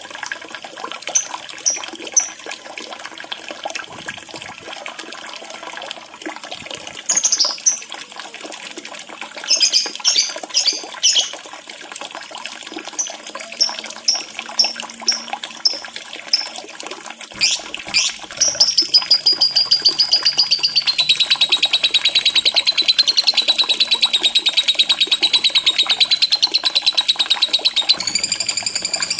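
Lovebird calls over steadily running water: scattered short, high chirps at first, then from about 18 seconds in a long, rapid, even trilling chatter that does not let up.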